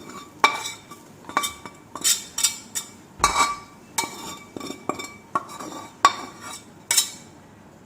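Metal spoon clinking and scraping against a metal pan in irregular strokes, about a dozen sharp clinks with a short ring, as cooked chicken masala is spooned out into dosa batter.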